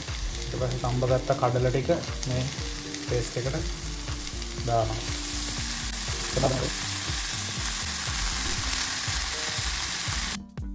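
Onion-tomato masala paste frying in oil in a nonstick kadai, sizzling steadily as boiled chickpeas are tipped in, the sizzle growing stronger about halfway through. The frying sound cuts off suddenly near the end.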